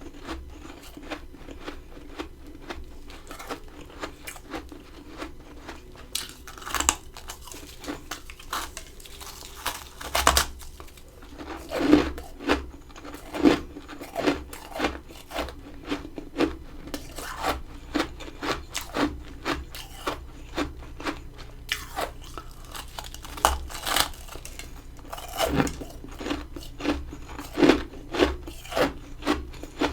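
Close-miked crunching and chewing of freezer frost: a steady run of crisp, crackly chews, a few each second, with louder bites now and then.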